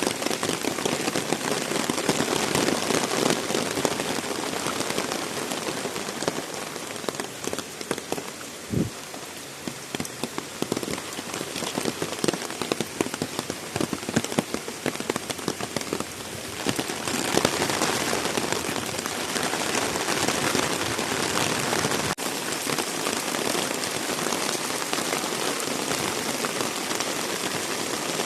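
Heavy rain falling and splashing on surfaces. It thins for a stretch in the middle, where single drop strikes stand out, then comes down heavier again about two-thirds of the way through.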